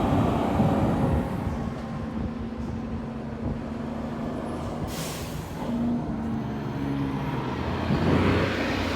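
Fire truck engine running, with a short hiss of air brakes about five seconds in; the vehicle noise swells near the end.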